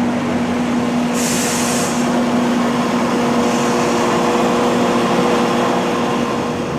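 Train running steadily with a low hum and a short hiss of released air from its air brakes about a second in.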